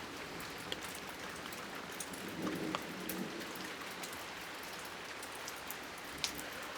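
Light rain falling: a steady hiss of rain with many scattered sharp ticks of individual drops hitting nearby surfaces.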